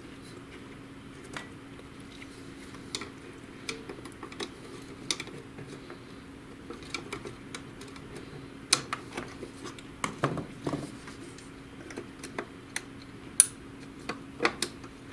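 Irregular small clicks and taps of an HP DeskJet GT 5820 printer's plastic and metal parts being handled by hand as a spring is unhooked from the mechanism, busier in the second half, over a faint steady hum.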